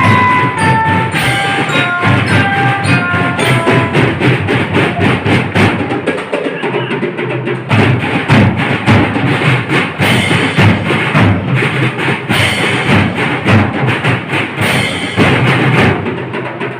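School drum band playing: rapid snare and bass drum strokes throughout, with a melody of short high pitched notes over the drums for the first four seconds or so.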